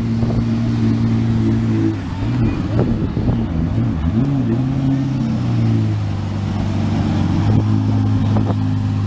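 Car engine running with a steady low drone; for a few seconds in the middle its pitch rises and falls as the revs go up and down, then it settles back to an even idle.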